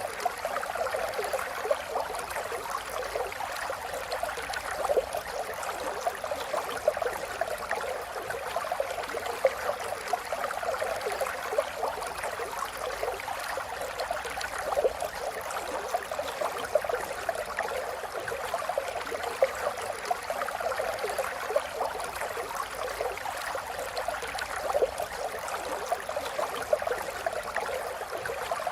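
River water flowing and babbling, a steady rush with many small gurgles and splashes.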